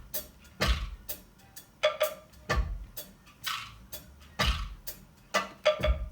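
Soloed drum and percussion tracks of a multitrack song playing back: kick, snare and hi-hat in a steady beat, the pattern repeating about every two seconds.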